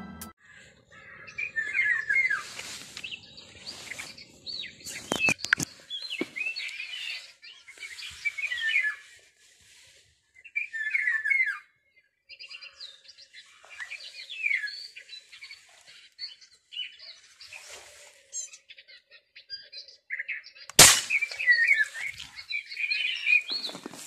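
Small bird chirping in short, repeated twittering phrases every couple of seconds. A few sharp clicks come about five seconds in, and a louder single click comes near the end.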